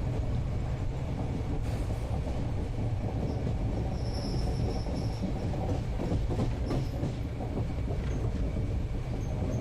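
Indian passenger train running, heard from inside the coach as a steady low rumble. A thin, high wheel squeal sounds about four seconds in and lasts about a second, followed by a run of knocks around six to seven seconds, with short squeaks near the end.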